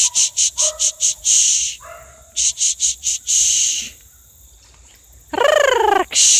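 A flock of domestic fowl calling: two runs of quick, harsh calls, about five a second, each ending in a longer call, then a loud call falling in pitch near the end.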